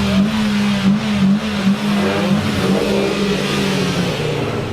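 Car engine held at raised revs, then dropping back toward idle about four seconds in.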